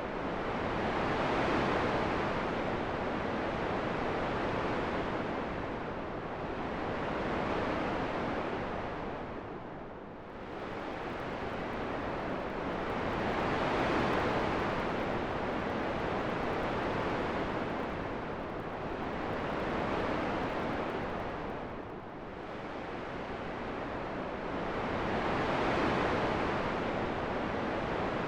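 Steady rushing wind noise, sleep-track style, that swells and eases in long slow gusts, dipping about every twelve seconds, with smaller swells in between.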